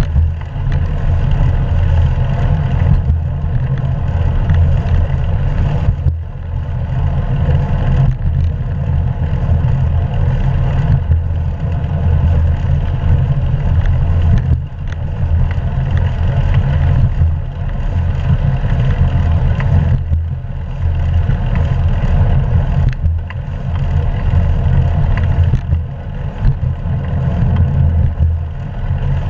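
Wind buffeting a GoPro camera's microphone on a moving bicycle: a loud, steady low rumble with brief dips every few seconds, mixed with tyre and road noise.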